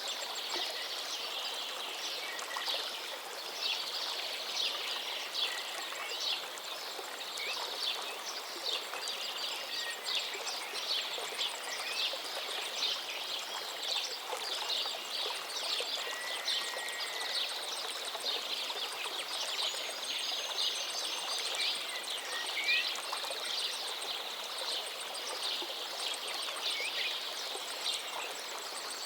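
A river flowing steadily, with many birds chirping and twittering in short, rapid high calls over the water sound, and an occasional longer whistled note.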